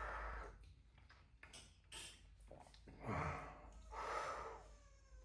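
Heavy breaths and huffing exhales from people whose mouths are burning from very spicy noodles. Near the end a faint drawn-out wail of a baby starting to cry.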